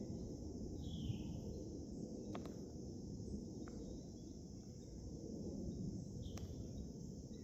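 Steady high-pitched insect drone over a low outdoor rumble, with two short falling bird calls, one about a second in and one near the end, and a few faint clicks.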